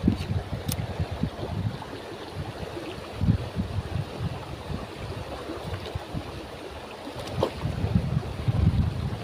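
Wind buffeting the microphone in gusts over a steady wash of moving water.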